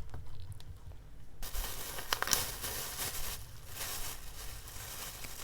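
Packaging rustling and crinkling as it is handled, in two stretches of dense crackle, the first starting about a second and a half in.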